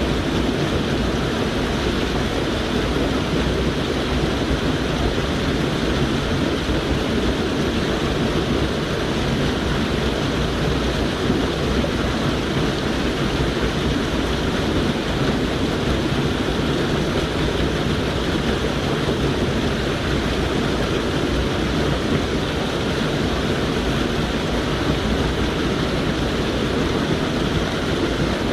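Steady rush of a mountain stream's flowing water, an even noise with no breaks.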